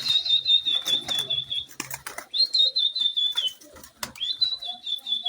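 Domestic pigeons flapping and clattering their wings. Three long, high, warbling whistles sound over them.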